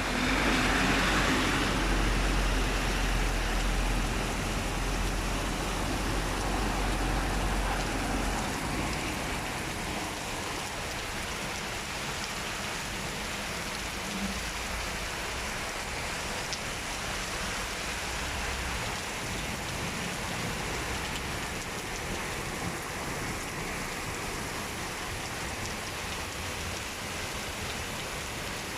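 Heavy rain falling steadily with an even hiss. A deep low rumble underlies it for about the first eight seconds, then the rain settles slightly quieter.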